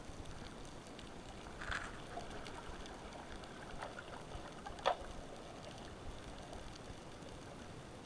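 Faint underwater ambience picked up through a camera housing: a steady low hiss with a few soft clicks and crackles, the sharpest about five seconds in.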